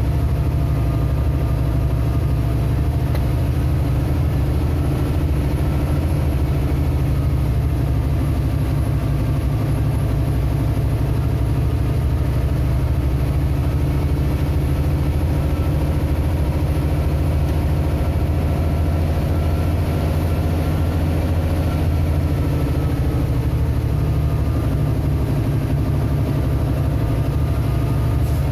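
Vehicle engine running at a steady pace: a deep, even drone with a faint higher whine that drifts slightly in pitch.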